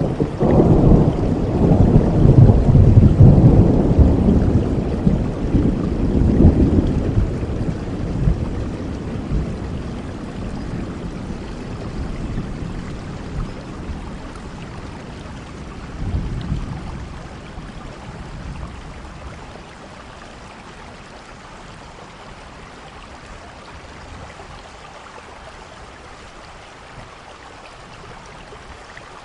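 Steady rain with a long rolling rumble of thunder over the first several seconds that slowly fades away, and a smaller rumble about halfway through.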